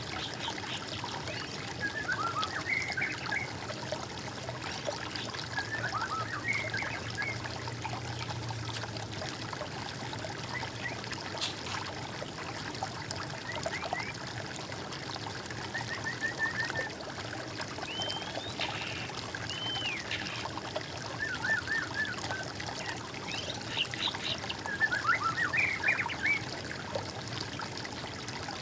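Water trickling steadily, with small birds singing short chirping phrases over it every few seconds.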